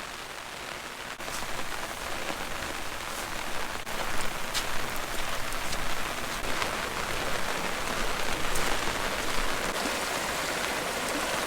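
Steady rain falling on an umbrella held overhead: an even hiss with scattered single louder drops. It grows louder about a second in and again about four seconds in.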